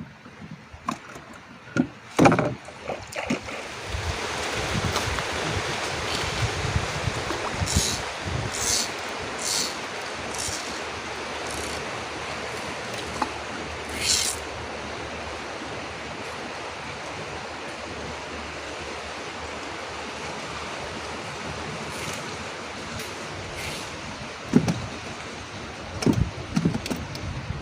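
A steady rush of water that swells about three seconds in, with scattered knocks early and near the end and a few short high hisses in the first half.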